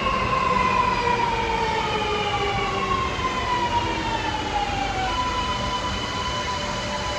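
Sydney Metro Alstom Metropolis electric train slowing into the platform, its traction motor whine falling in pitch over several tones as it brakes, then settling into a steady hum about five seconds in, over the rumble of the wheels.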